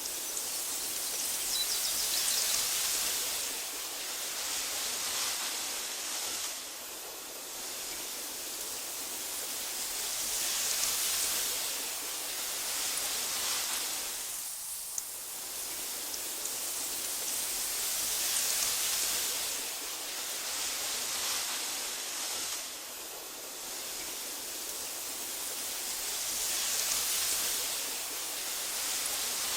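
Breeze rustling through tall meadow grass: a steady soft hiss that swells and fades in slow gusts about every eight seconds.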